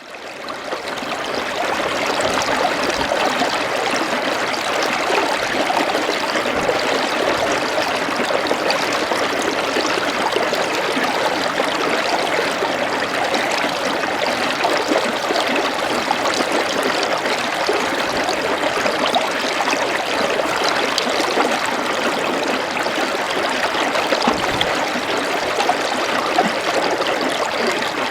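Flowing water running steadily, a continuous rushing trickle like a small stream or channel, fading in from silence at the start.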